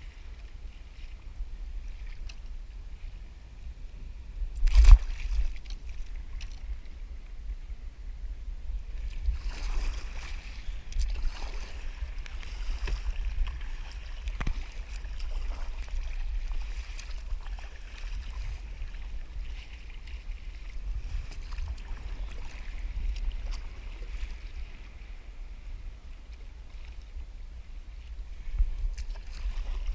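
Water splashing and sloshing around a kayak as it is paddled, with wind rumbling on the GoPro microphone. One sharp knock about five seconds in is the loudest sound.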